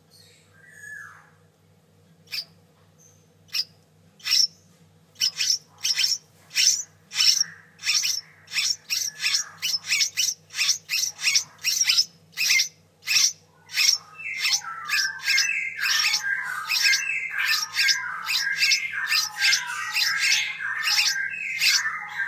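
One-week-old straw-headed bulbul chicks calling: short, sharp, high chirps, sparse at first and then coming rapidly one after another. About two-thirds of the way through, a busier, lower chatter joins them.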